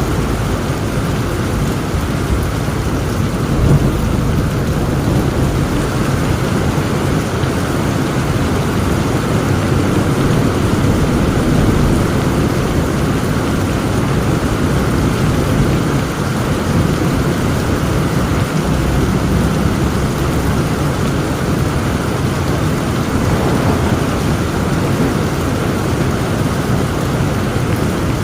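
Heavy rain pouring steadily, with low rolling thunder rumbling underneath that swells briefly about four seconds in.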